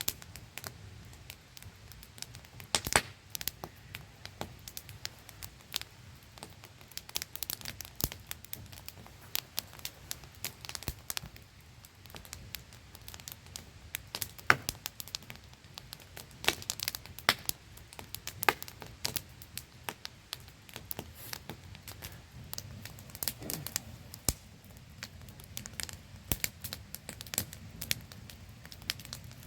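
Wood campfire crackling and popping in irregular sharp snaps, several louder pops standing out, over a faint steady static-like hiss from a small waterfall.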